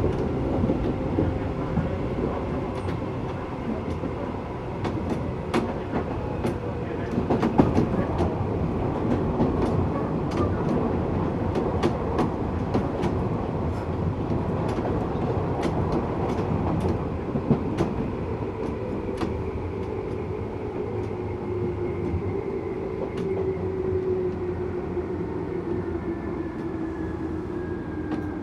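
Tokyu 8500 series electric train running on rail, with its Toyo-built traction motors whining and wheels clicking over rail joints. Over the second half the motor whine slides slowly down in pitch as the train slows.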